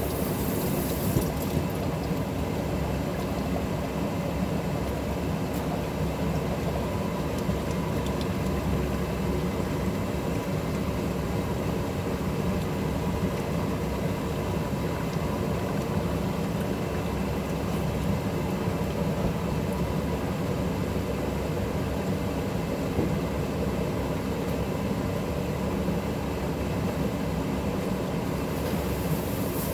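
A steady machine hum over a low rumble, running evenly throughout with a few faint ticks.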